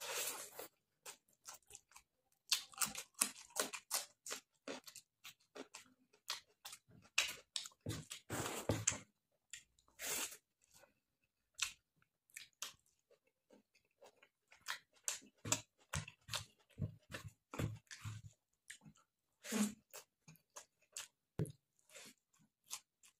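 Close-miked chewing and mouth smacking of a person eating pork curry with rice by hand: irregular wet clicks and crunches, with a lull of a couple of seconds about halfway through.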